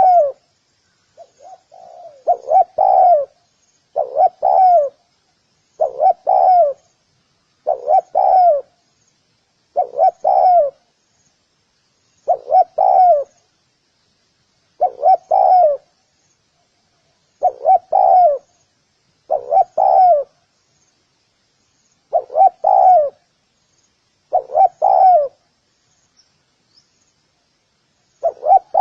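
Spotted dove cooing: a short two- or three-note phrase repeated about every two seconds, with a longer pause near the end. Faint high chirping runs steadily underneath.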